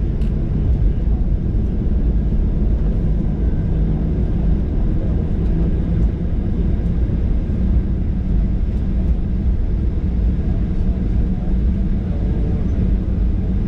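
Steady low rumble inside the passenger cabin of a Ryanair Boeing 737-800, its engines and airflow heard through the fuselage.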